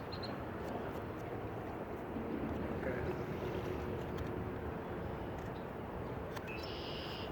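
Steady wind-and-wave noise from the lakeshore, with a few faint clicks as a knife cuts a notch into a wooden fireboard.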